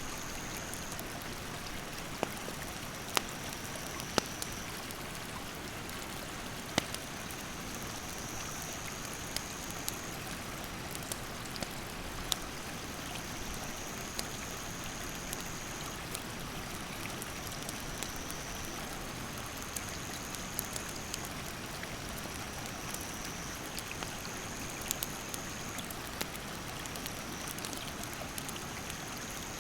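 Rushing mountain stream with a wood campfire crackling, sharp pops every second or two over the steady hiss of the water. A high insect trill comes and goes in phrases of one to two seconds.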